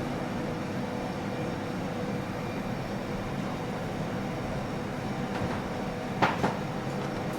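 Steady hum of a restaurant kitchen's ventilation, with two sharp knocks close together about six seconds in.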